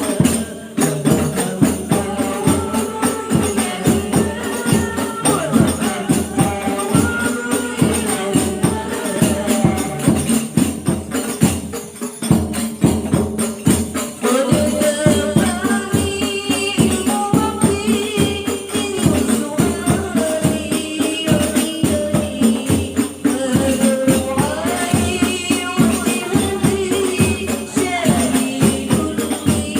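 Hadroh ensemble: rebana frame drums beating a fast, steady rhythm under women's voices singing sholawat.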